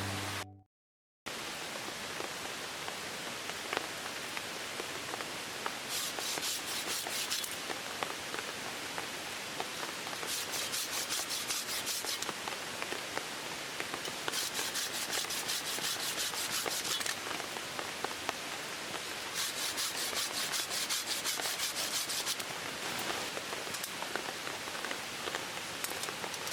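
Steady rain falling, with four bouts of quick rhythmic scraping or rubbing, each lasting one to three seconds.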